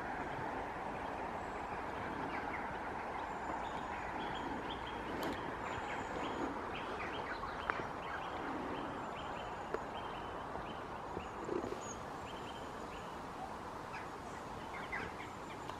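Small birds chirping over a steady outdoor background hiss, with a run of short high chirps, a couple each second, through the middle and a few more near the end.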